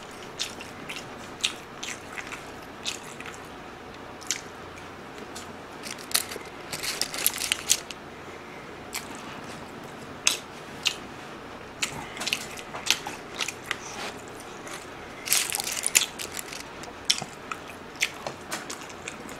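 Close-miked eating of rice and marinated pork: irregular wet mouth clicks and chewing, thickening into denser bursts of chewing about seven and fifteen seconds in.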